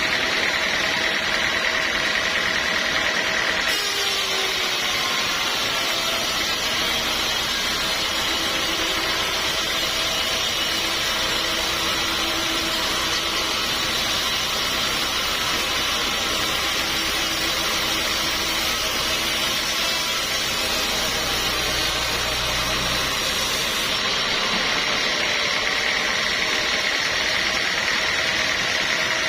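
Sawmill saw running steadily. From about four seconds in until a few seconds before the end it turns harsher and brighter, as the blade cuts through teak.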